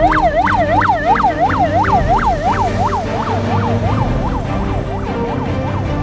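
Emergency vehicle siren in fast yelp mode, its pitch sweeping up and down about three times a second and fading away near the end, over background music.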